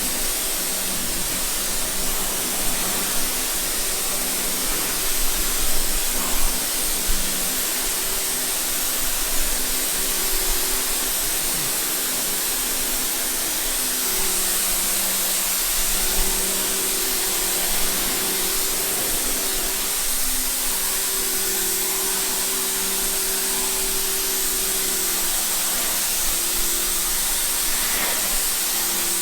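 Pressure washer spraying water in a steady hiss, its motor humming underneath, the hum dropping out and returning now and then.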